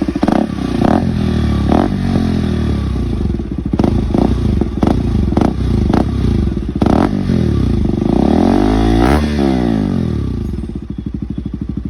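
KTM RC200's single-cylinder engine through an aftermarket Akrapovic exhaust, revved in a series of quick throttle blips, each with a sharp crack. About eight seconds in comes one longer rev that rises and falls, then it drops back to a pulsing idle near the end.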